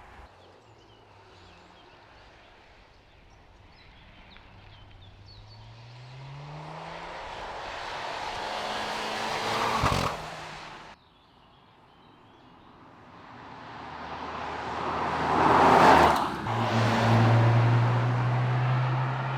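Mercedes-AMG C43's turbocharged 2.0-litre four-cylinder engine accelerating, its note climbing in pitch and growing louder until it cuts off abruptly about eleven seconds in. A second run builds to its loudest point about sixteen seconds in as the car passes, then settles into a steady low drone.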